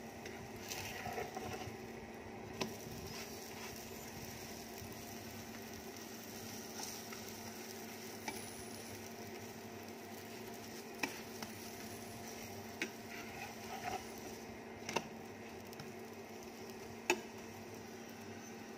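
Aloo paratha roasting in oil on a nonstick tawa, sizzling faintly under a steady low hum. A slotted turner pressing the paratha against the pan makes a handful of short, sharp taps.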